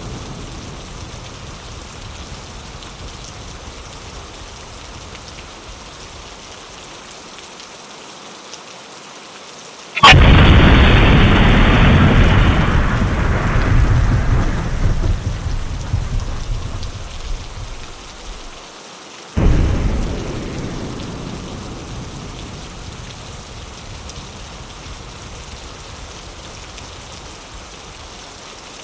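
Steady rain with thunder. A sharp thunderclap about ten seconds in rumbles and fades over several seconds. A second clap follows near the twenty-second mark and fades away into the rain.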